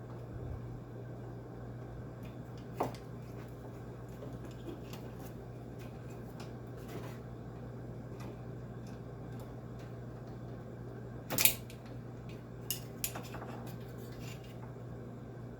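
Scattered clicks and clinks of small metal tools and parts being handled, with a sharper clank about eleven seconds in and two quick clicks just after, over a steady low hum.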